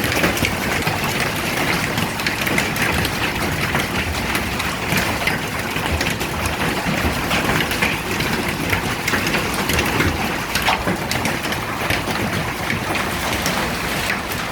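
Hail with heavy rain pelting down: a dense, steady clatter full of sharp little impacts from the hailstones.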